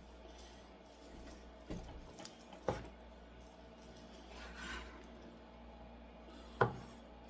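Faint handling noises on a kitchen counter: a few light knocks, the loudest one near the end, and a soft rubbing rustle in between, as a packaged chicken breast is opened.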